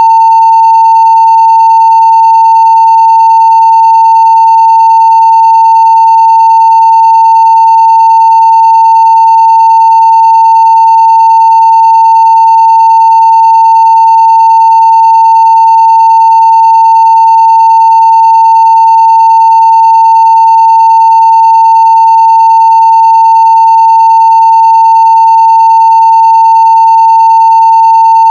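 Steady 900 Hz sine-wave test tone at full scale (0 dB), unbroken and unchanging in pitch and level, with faint higher overtones above it.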